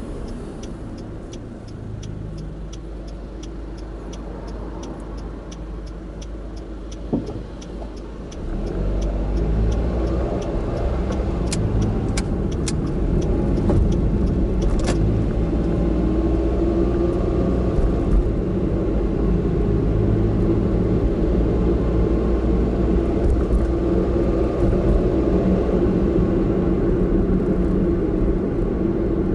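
A car heard from an in-car camera. For the first eight seconds there is a low rumble with a steady ticking about two to three times a second, and a single knock at about seven seconds. The engine and road noise then grow louder as the car pulls away and speeds up.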